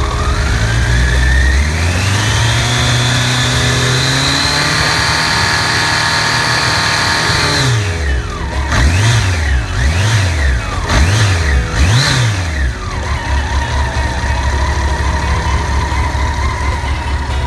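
Honda CBR1100XX Blackbird's inline-four engine revved up from idle and held high for several seconds. It then drops back, is blipped four times in quick succession, and settles into a steady idle.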